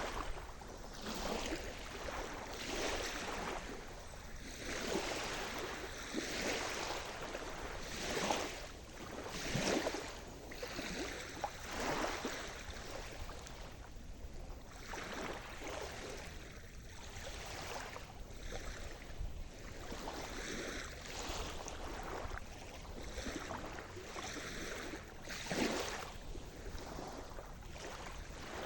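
Sea surf: small waves breaking and washing in, one after another every second or two, over a steady rush of water.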